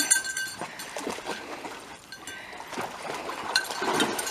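A dog splashing and sloshing about in shallow water.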